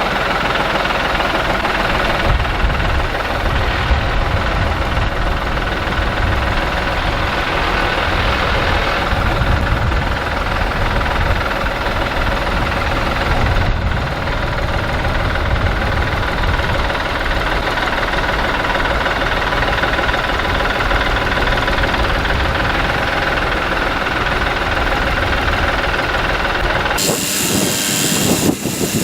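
A vehicle engine running steadily with a low rumble, then cutting off abruptly near the end, replaced by a brighter hiss.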